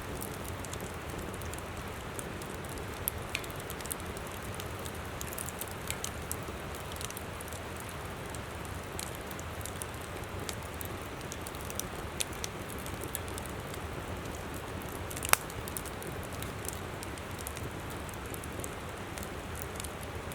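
Wood campfire crackling with scattered small pops and one sharp, louder pop about fifteen seconds in, over the steady rush of a flowing river.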